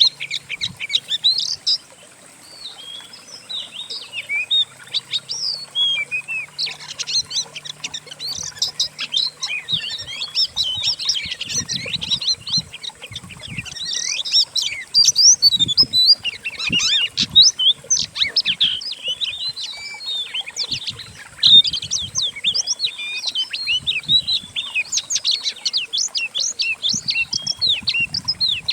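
A blended recording of several songbirds singing at once: a dense, continuous run of fast chirps, trills and short whistles.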